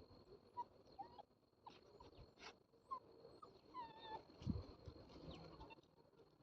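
Faint dog whining: a handful of short, high-pitched whimpers, the longest and clearest about four seconds in.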